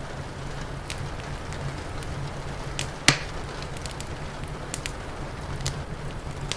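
Wood fire crackling, with scattered sharp snaps and one loud pop about three seconds in, over a steady low rumble and an even hiss.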